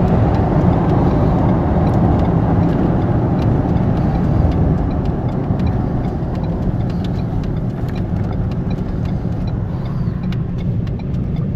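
Car driving, its engine and tyre road noise heard from inside the cabin as a steady low rumble that eases a little in the second half.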